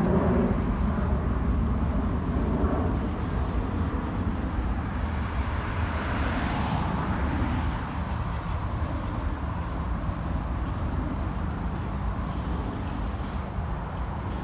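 Steady low rumble of a vehicle outdoors, with a hissing swell about halfway through that then slowly fades.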